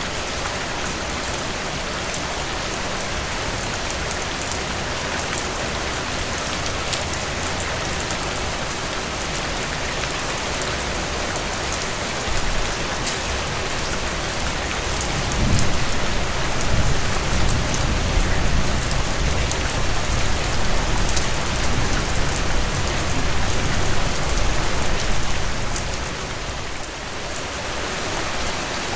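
Steady rainfall, with individual drops ticking sharply on a surface. About halfway through, a low rumble swells in and goes on for some ten seconds before fading.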